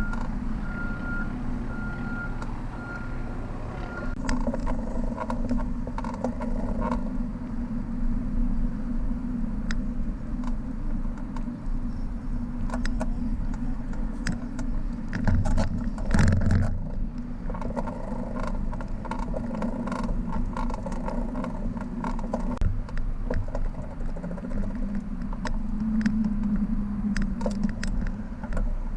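Road noise from a camera riding on a bicycle: a steady low hum of tyres and road with frequent rattling clicks. A repeating high beep sounds for the first few seconds, and a louder rush swells and fades about halfway through.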